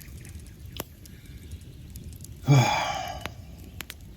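A person sighs out loudly about two and a half seconds in, a short voiced start trailing into a breathy exhale. A few sharp crackles from a wood campfire are scattered through the pause.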